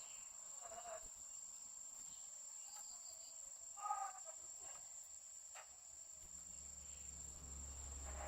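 A female red-whiskered bulbul gives two short calls, a brief one about a second in and a louder one about four seconds in. A steady high-pitched whine, like a cricket's, runs underneath.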